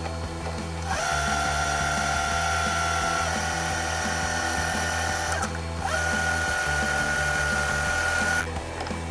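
Metal lathe's electric motor spinning up with a rising whine and running steadily for about four and a half seconds, stopping briefly, then running again for about two and a half seconds, as the machining moves on to threading an aluminium bung. Background music plays underneath.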